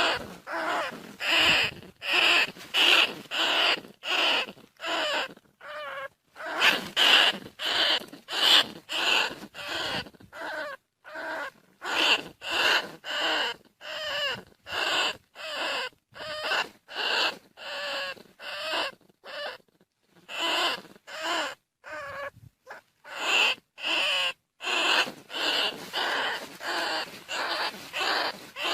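Lesser bandicoot rat calls: short, squeaky cries repeated over and over, about one and a half a second with brief gaps, played as a lure call to draw field rats in.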